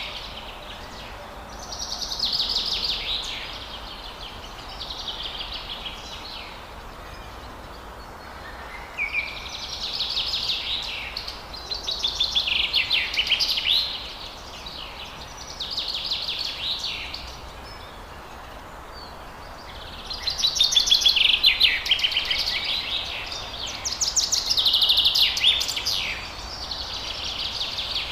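Forest songbirds singing: short, high trilled song phrases of a second or two, repeated every two or three seconds, over a steady background hiss.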